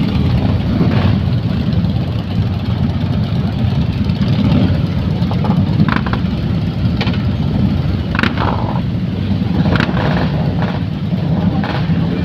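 Harley-Davidson motorcycle engines idling together in a steady low rumble, with a few brief sharper sounds over it.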